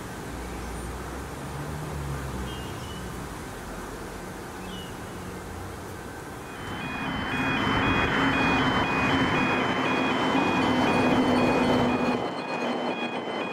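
Comeng electric suburban train running on the track, its rumble growing much louder about halfway through, with a high ringing tone pulsing evenly over it from that point on.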